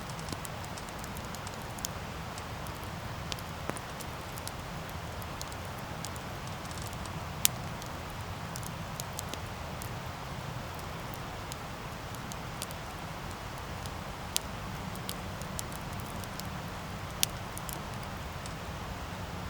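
Wood campfire burning with a steady low rush of flames and scattered sharp crackles and pops, the loudest about seven and a half seconds in and again near the end.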